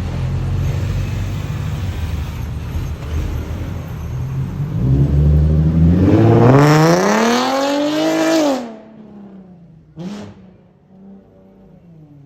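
Nissan 370Z's 3.7-litre V6 through a very loud Tomei straight-pipe exhaust: a deep rumble, then the engine climbs steadily in pitch for about three seconds before cutting off sharply. Afterwards it settles to a quiet idle, with one short throttle blip.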